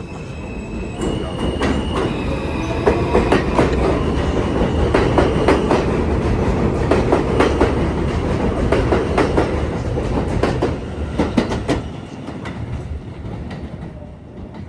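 New York City subway train on the J/M line passing, its wheels clicking rhythmically over the rail joints. It grows louder over the first few seconds and fades near the end.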